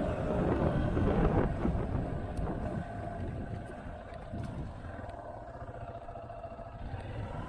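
Motorcycle engine running with wind rush on the rider's microphone while riding, growing quieter from about two seconds in.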